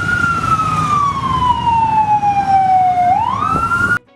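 Fire truck siren wailing: one slow fall in pitch over about three seconds, then a quick rise, over a low rumbling engine. It cuts off suddenly near the end.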